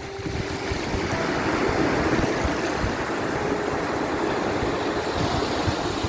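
Sea surf washing onto a shore, a steady rush that swells about a second in, with a few faint held notes of soft music beneath it.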